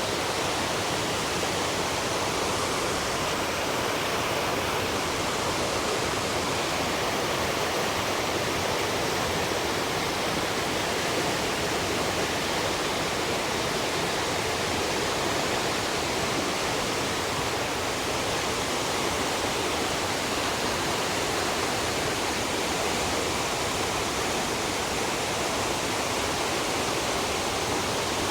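Rushing water from a fast mountain river and waterfall, a steady even rush with nothing else standing out.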